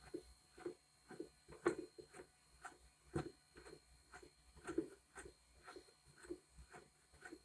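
Soft, even rubbing strokes, about two a second, from a vinyl record being hand-washed in a Vinyl Styl record washer. The record-cleaning vacuum is not running.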